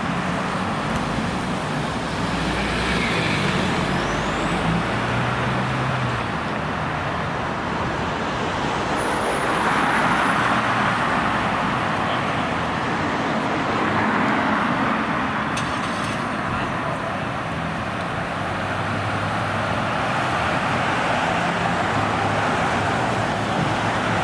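Street traffic noise: a steady hum of cars on the road, with a few vehicles swelling louder as they pass.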